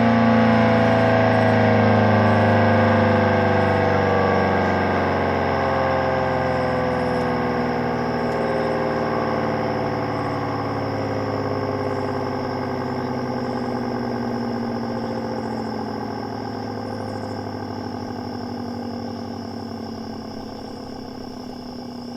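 Electromechanical warning siren (an STH-10B converted to an ACA-P10) winding down: its wail of several tones falls slowly and steadily in pitch and fades as the rotor coasts toward a stop.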